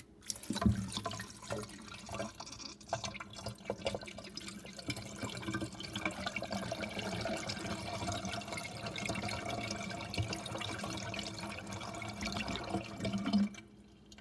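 Water poured from a watering can into a miniature Eldro Silenta toilet, splashing through the bowl as it flushes. The flow lasts about thirteen seconds, then stops suddenly near the end.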